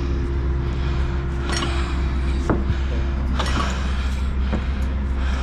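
An engine idling steadily, with four short clinks and knocks of work scattered through it.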